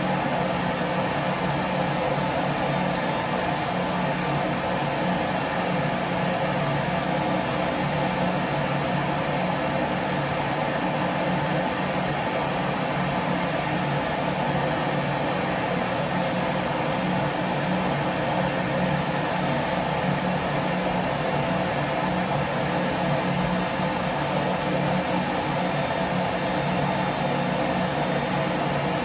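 Vacuum cleaner running steadily: an even motor hum and airflow hiss with no change in pitch or level.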